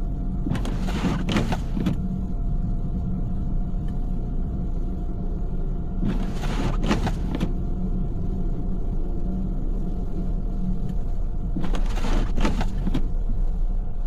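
Steady car-cabin rumble from driving, with the windshield wipers sweeping across the glass three times at even spacing, about every five and a half seconds, each pass a swish out and back.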